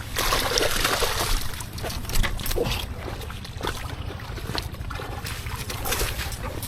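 Water splashing and sloshing, loudest in the first second and a half and then in scattered splashes, as a catfish speared only through the tail thrashes to get free.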